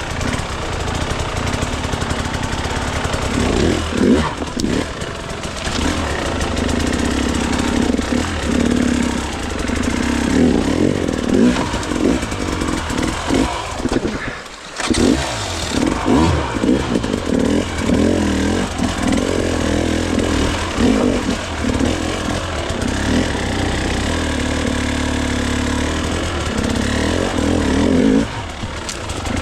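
Dirt bike engine revving up and down under constantly changing throttle while riding rough off-road terrain. The sound drops away briefly about halfway through.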